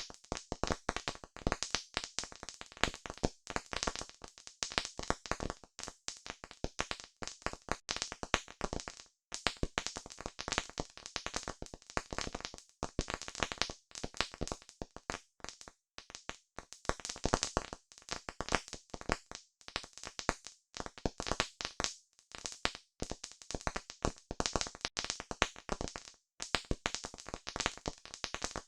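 Campfire crackling: a dense, irregular stream of sharp snaps and pops from burning wood, several a second, with brief lulls now and then.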